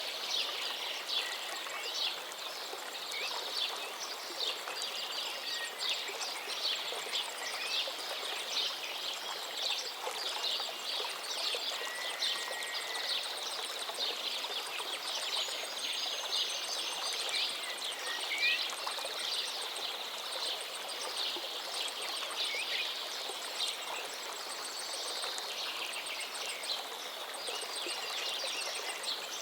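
Many birds chirping rapidly over a steady rush of running water.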